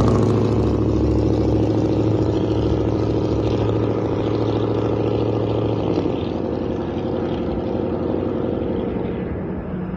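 Pickup truck's loud exhaust: a steady engine drone that slowly fades, with a slight change in its note about six seconds in.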